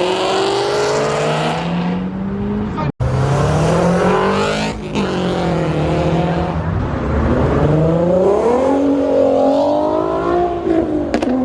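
Loud performance car engines accelerating hard out of a car meet, their pitch climbing through the gears and dropping between shifts and revs. The sound cuts out for an instant about three seconds in.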